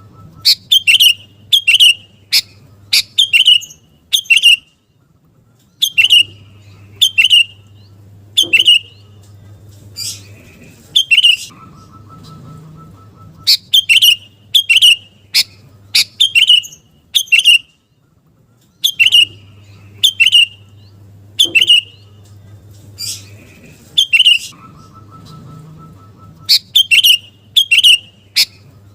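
Sooty-headed bulbul (kutilang) calling: loud, sharp notes in quick runs of three or four, with short pauses between runs. The same sequence comes round again about every 13 seconds, as a looped recording does.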